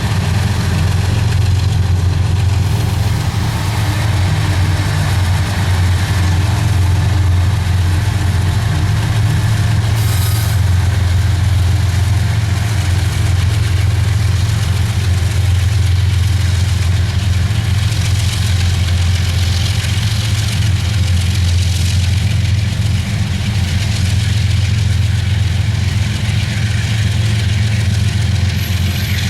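Diesel-electric freight locomotives running steadily under power as an ethanol tank train moves, a loud, even low engine drone.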